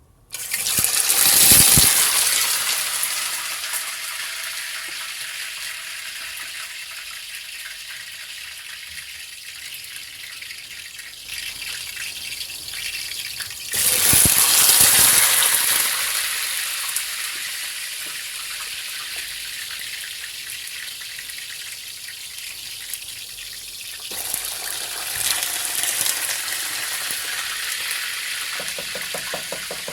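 Potato pieces going into hot oil and sizzling loudly as they shallow-fry. The sizzle flares sharply as they go in, then settles to a steady hiss. It flares again about halfway through and once more later on.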